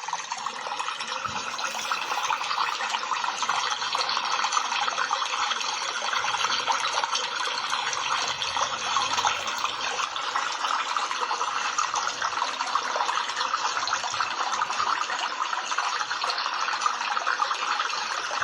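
Steady rushing of water: an even hiss without breaks or distinct drops.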